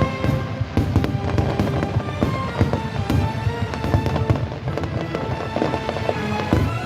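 Aerial fireworks bursting in quick succession over music with a steady beat.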